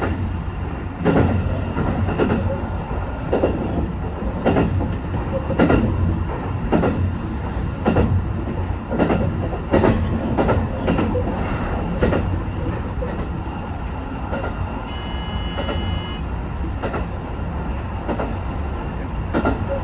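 Train running at speed, its wheels clicking over rail joints about once a second over a steady low rumble, the clicks thinning out in the second half. A short electronic tone sounds for about a second roughly three-quarters of the way through.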